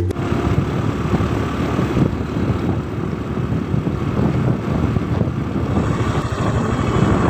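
Steady, loud rumbling noise with wind buffeting the microphone, like riding in a moving vehicle.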